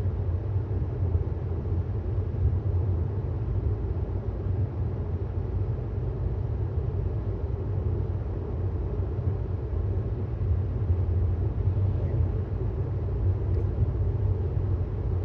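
Steady low road and tyre rumble of an electric Tesla Model S 75D driving at speed, heard from inside the cabin, with no engine sound.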